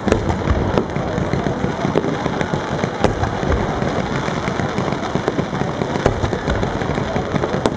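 Fireworks display going off: a dense, unbroken crackle with louder sharp bangs every second or two at irregular intervals.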